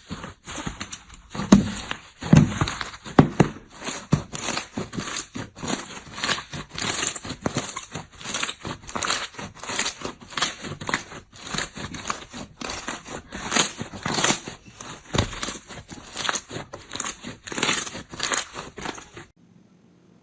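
Slime being squeezed and poked by hand, giving a dense run of crackling, crunching pops several times a second; it stops suddenly about a second before the end.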